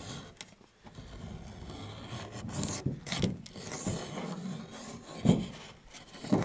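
Wood being scraped and rubbed by hand in irregular strokes, with scattered knocks and one sharp, loud knock about five seconds in.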